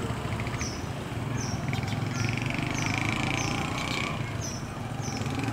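A small bird gives about six short, high, downward chirps, roughly one a second, over a steady low rumble of distant traffic. A buzzy trill joins in from about two to four seconds in.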